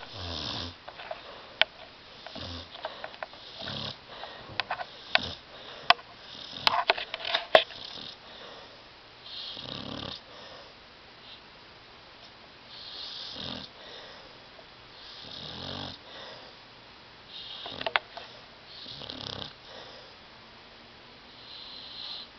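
A sleeping dog snoring loudly, one rasping breath every two to three seconds. A cluster of sharp clicks comes about six to eight seconds in, and another near eighteen seconds.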